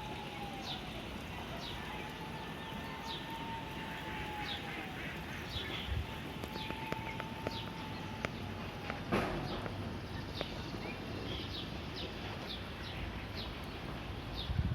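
Steady wind rushing, with a bird calling over it in short, falling chirps about once a second. One brief louder gust comes about nine seconds in.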